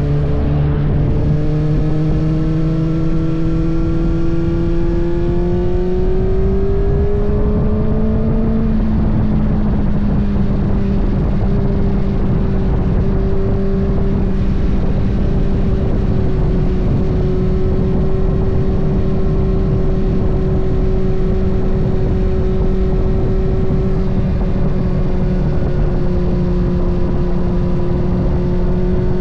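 Kawasaki ZX-6R's inline-four engine under way: the engine note climbs steadily for about the first eight seconds as the bike accelerates, then holds a nearly steady pitch while cruising, over a constant rushing noise.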